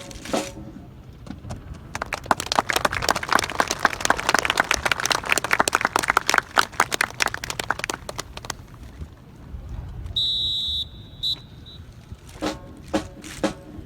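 Crowd applauding for about seven seconds, with a steady high-pitched tone about a second long and two short pips after the clapping dies away. Snare and bass drum strikes start again near the end.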